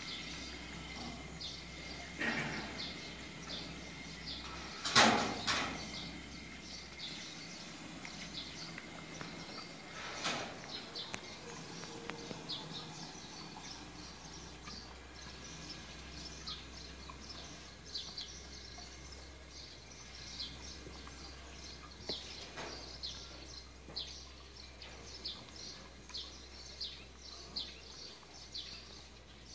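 Small birds chirping repeatedly in short high notes over a steady barn background, with a few louder short noises, the loudest about five seconds in.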